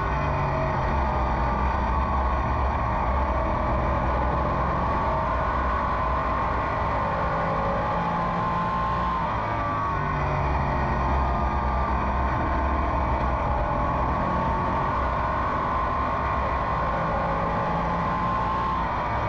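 Race car's V8 engine heard from inside the car at racing speed, its revs dropping and climbing back up as it goes through the turns and down the straights.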